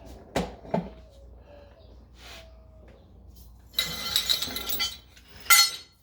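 Metal objects clinking and rattling, like hand tools or exhaust hardware being handled: two knocks about half a second in, a longer jangle about four seconds in, and a sharp clink shortly before the end.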